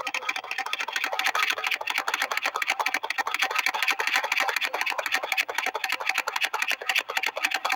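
Steam engine running with a rapid, even clatter of many short chuffs or beats a second.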